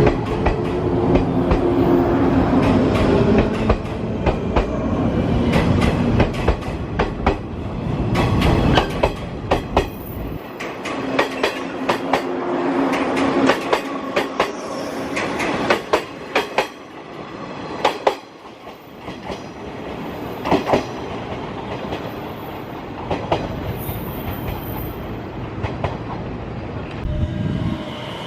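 Train running at the station: a loud rumble with a steady motor hum for the first ten seconds or so, and wheels clacking over rail joints throughout, the rumble then dropping away while the clacks go on.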